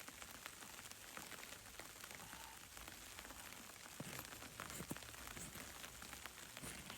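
Faint, steady patter of precipitation: many small irregular ticks over a soft hiss, with a few louder ticks in the second half.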